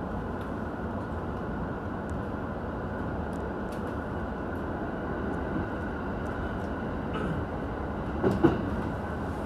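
Commuter train running on the JR Utsunomiya Line, heard from inside the carriage: a steady rumble of wheels on rail, with a couple of sharper knocks about eight seconds in.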